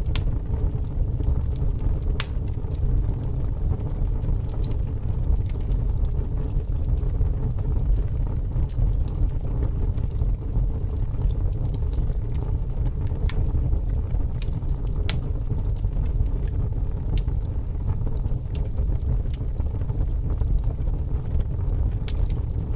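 Wood fire burning with a steady low rumble and sparse, irregular sharp crackles and pops.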